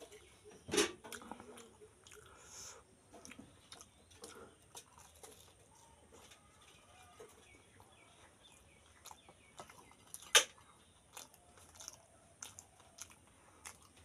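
A person chewing and crunching crisp, filled pani puri shells, mouthful after mouthful, with many small crackling crunches and two sharper, louder clicks about a second in and about ten seconds in.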